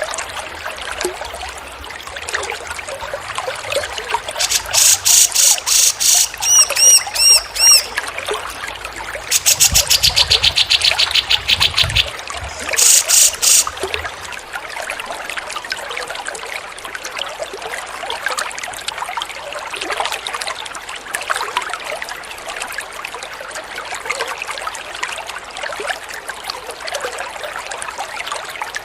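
Water trickling steadily throughout. From about four to fourteen seconds in, a songbird's song sounds louder over it, in fast trilled runs and a series of curved chirps, then stops and leaves only the water.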